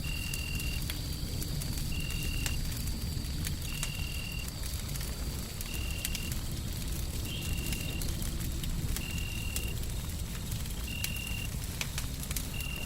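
Wood fire crackling in a hearth, with scattered sharp pops over a steady low rumble. A short, high-pitched call repeats about every two seconds.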